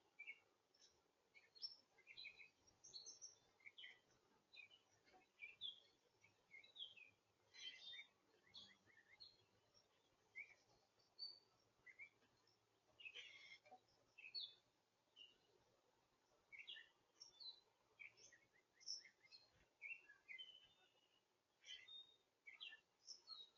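Faint birdsong: many short, high chirps and calls from small birds, scattered irregularly, with a few quick runs of repeated notes.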